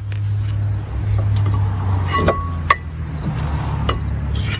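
Metal clinks and knocks of hand tools and a freed bolt being handled during brake work: about half a dozen separate clinks, one with a short ring near the middle, over a steady low hum.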